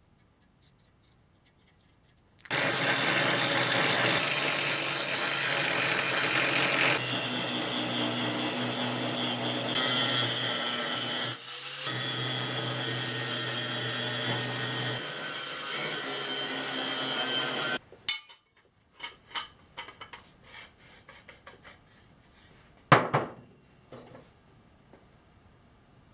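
A power tool cutting or grinding steel runs steadily for about fifteen seconds, with a brief drop about halfway, then stops; a few light clicks and one sharp metallic knock follow.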